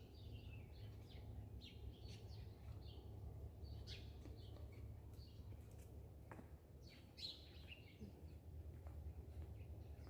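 Small birds chirping faintly and repeatedly, short high calls scattered all through, over a steady low rumble.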